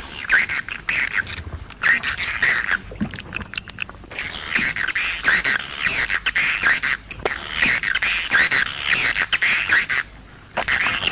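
Swiftlets (walet) calling: dense, overlapping twittering chirps, in short bursts at first and then almost unbroken, with a brief lull near the end. This is the kind of swiftlet call track that is played to draw the birds into nesting houses.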